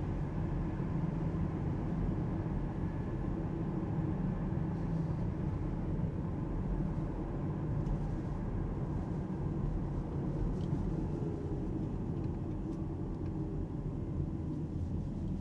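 Steady low road and tyre rumble of an Alpine A390 GT three-motor electric car being driven, with a faint steady whine above it.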